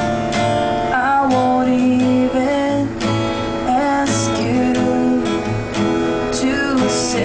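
Acoustic guitar strummed in a steady rhythm, accompanying a slow song, with held melody notes that bend in pitch.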